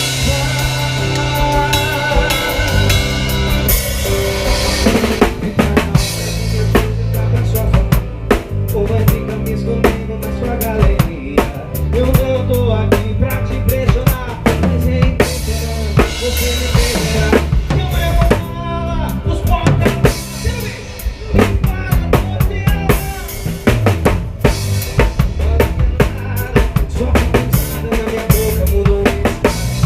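Live band music with the drum kit loud in front: steady bass drum, snare and rimshot strokes over bass and melodic parts.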